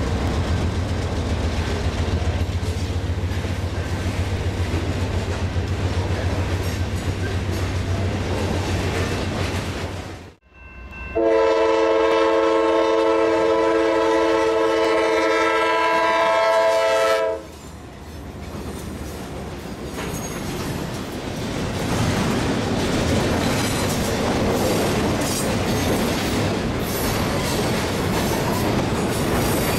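Freight cars rolling past with a steady low rumble. After a cut, a CSX GE diesel locomotive sounds one long air-horn blast of about six seconds as it approaches a grade crossing. Then the locomotive and its double-stack container cars roll by with wheel clatter, growing louder near the end.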